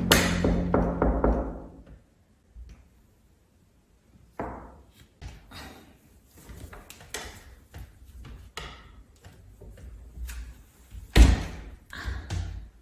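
Music fading out in the first two seconds, then a series of scattered knocks and thumps, the loudest about eleven seconds in.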